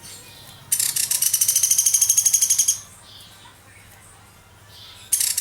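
Sunda pygmy woodpecker (pelatuk beras) calling: one long, rapid, high trill of about two seconds about a second in, and a short burst of the same near the end.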